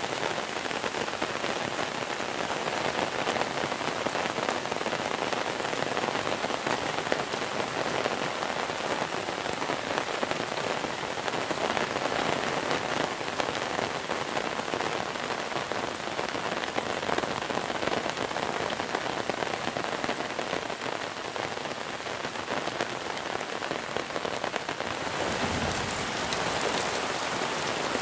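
Monsoon rain falling steadily: a dense, even hiss of rain on surfaces with many small individual drop ticks. Near the end the hiss turns brighter.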